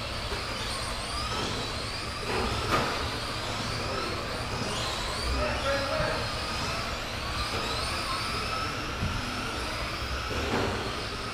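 Several radio-controlled race trucks' motors whining as they race, the pitches rising and falling as each accelerates and brakes, with a sharp knock a little under three seconds in.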